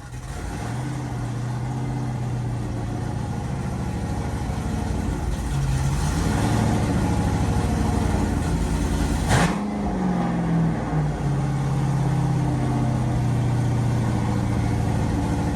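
6.0-litre LS V8 truck engine running at a steady idle, with brief blips of the throttle. The sharpest blip, about nine seconds in, sends the pitch up and back down.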